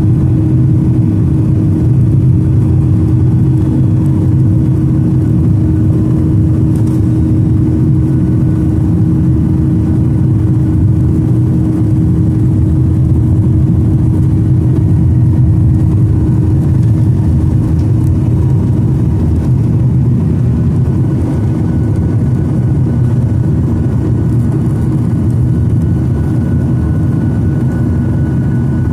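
Boeing 737-900ER's CFM56 jet engines running steadily, heard as a loud, even rumble inside the cabin with a low hum held throughout. A faint higher tone joins in over the second half.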